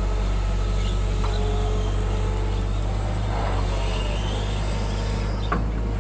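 Hydraulic excavator's diesel engine running steadily under work, with a few faint knocks and clicks from the machine.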